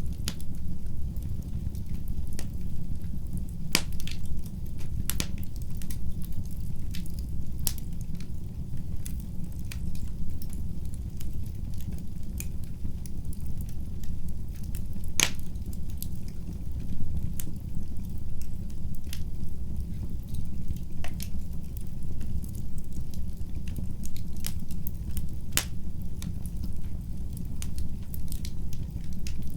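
Wood fire crackling in a fireplace: a steady low rumble of the burning fire with scattered sharp pops and snaps, one louder pop about halfway through.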